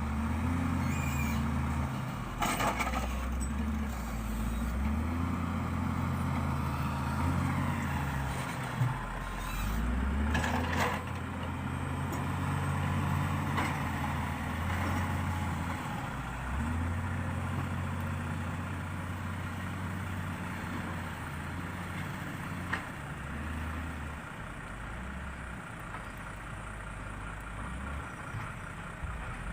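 Heavy diesel engine running, its pitch rising and falling as it is revved up and down under changing load, with short bursts of hiss about two and ten seconds in.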